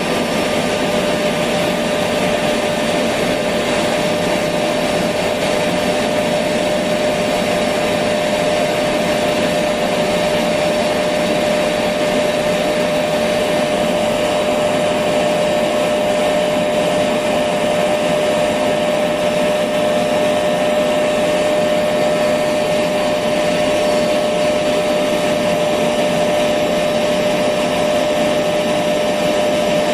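Electric vacuum cleaner running steadily, a constant whooshing noise with a steady hum in it that does not change.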